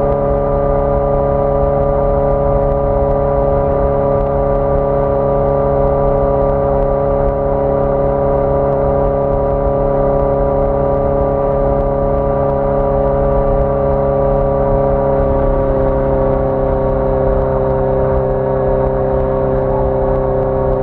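1981 Yamaha XJ650 Maxim's air-cooled inline-four engine running at a steady cruising speed under way. Its note eases slightly lower over the last few seconds as the rider lets the revs drop a little.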